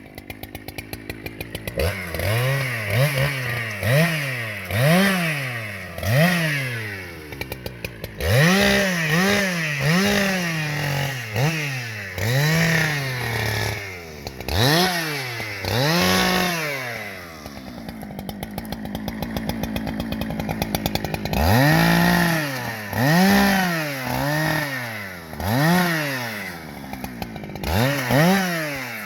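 Two-stroke chainsaw cutting firewood rounds from a log, the engine revving up and dropping back about once a second as it goes through cut after cut. For a few seconds past the middle it runs more steadily before it starts revving again.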